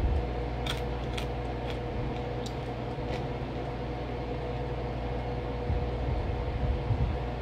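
Steady background hum with a faint tone running through it. About five faint crisp crunches in the first three seconds come from chunks of cornstarch being chewed.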